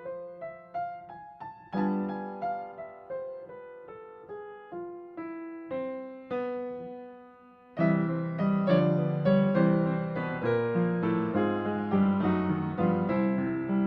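Background piano music: a gentle line of single notes that rings out and fades, then louder, fuller chords coming in about eight seconds in.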